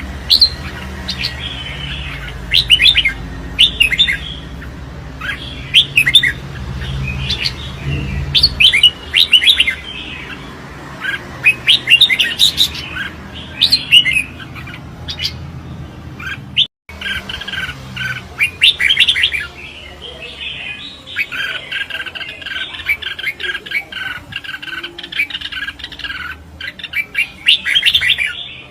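Red-whiskered bulbul singing challenge song: short, bright, chirping phrases repeated every second or so, with a brief gap about two-thirds through.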